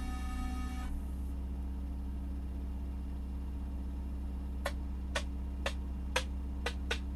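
Quiet intro of a slowed, bass-heavy song remix playing through a car audio system: a steady low bass drone with faint held tones that stop about a second in, then sharp ticks about twice a second near the end.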